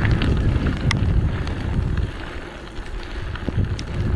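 Wind buffeting the microphone while riding a bicycle: a loud, rough rumble, with scattered sharp ticks and rattles on top. It eases somewhat in the second half.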